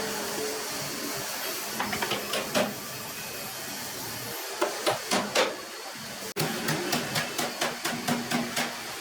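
Light, sharp taps in small clusters, then a quicker, even run of about three to four taps a second, over a steady hiss.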